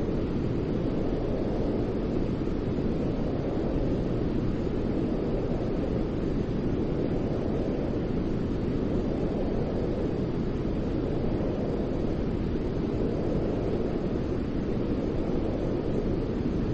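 Steady white noise for infant sleep: an even, deep rushing hiss weighted toward the low end, with no change in level.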